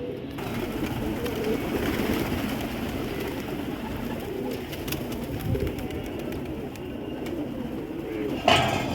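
Many domestic pigeons cooing, with low calls overlapping throughout. A short, loud burst of noise comes near the end.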